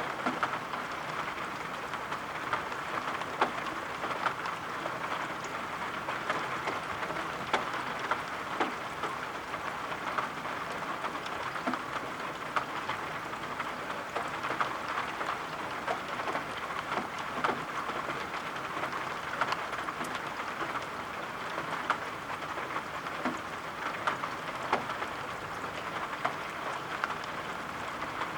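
Steady rain falling, a constant hiss with many small, scattered ticks of individual drops striking a surface.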